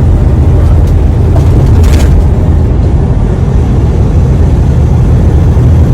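Semi-truck's diesel engine droning steadily in the cab while descending a grade, with a brief hiss about two seconds in.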